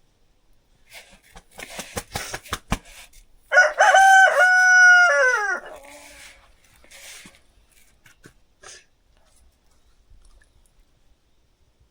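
Rooster crowing once: a single loud, long call of about two seconds that drops in pitch as it trails off. Just before it comes a quick run of sharp taps.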